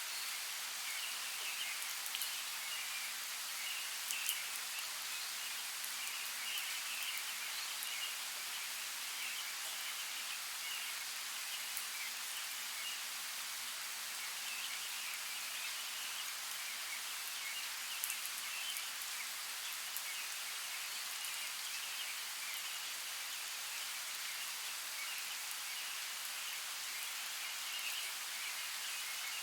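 Steady outdoor nature ambience: an even hiss with a flickering chirring chorus and scattered light ticks.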